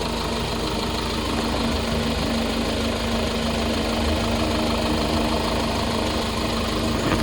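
Hyundai Porter II truck's 2.5-litre diesel engine idling steadily.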